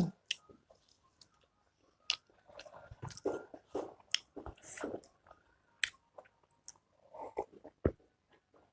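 Close-up mouth sounds of someone chewing and biting pork fat pickle: irregular wet chewing with short clicks and smacks, starting about two seconds in, with a sharper click near the end.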